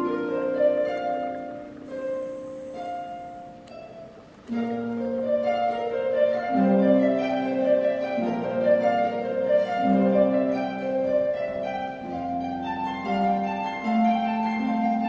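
Harp and pipe organ playing a classical-style piece: rippling plucked harp notes over held organ chords. The music thins and softens about four seconds in, then comes back fuller and louder half a second later.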